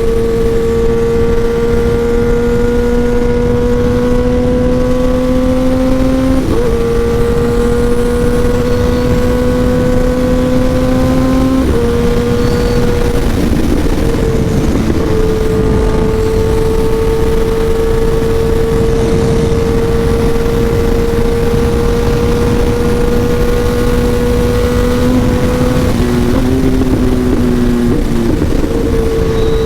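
Kawasaki ZX-10R inline-four sportbike engine through an SC Project aftermarket exhaust, pulling under load on the road. Its pitch climbs slowly between short breaks for gear changes, about five of them, with wind rush underneath.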